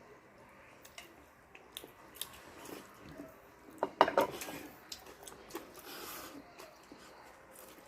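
Close-up eating noises: chewing and wet mouth sounds with scattered sharp clicks, loudest a quick crackle about four seconds in.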